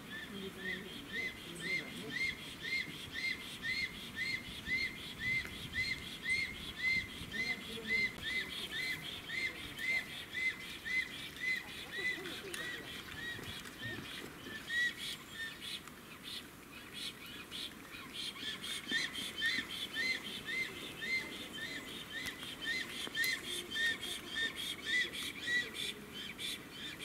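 A bird calling a long series of short, arched whistled notes, about two to three a second. The notes drop slightly in pitch before stopping about halfway through, then resume a few seconds later.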